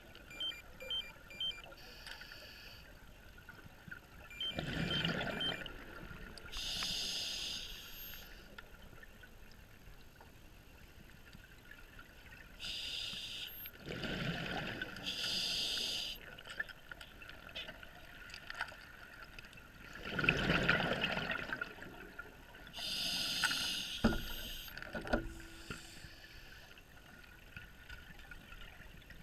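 Scuba diver breathing through an open-circuit regulator underwater: short hissing inhalations alternate with louder rushes of exhaled bubbles, a few breaths in all.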